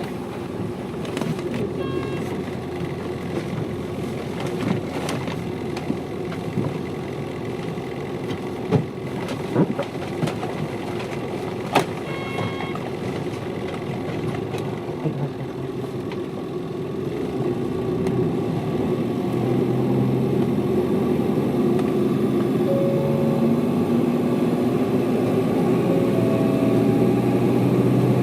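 Hino Liesse city bus running, heard from inside the cabin, with a steady engine drone, scattered rattles and two brief beeps. About 19 seconds in the engine gets louder and its tone climbs as the bus pulls harder, as on a steep grade.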